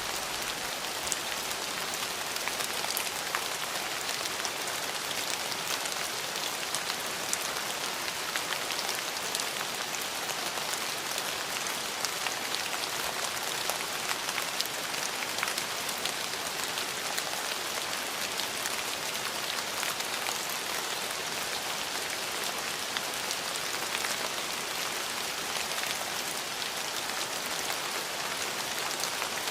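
Steady rain falling, an even hiss with many fine drop ticks and no pauses or swells.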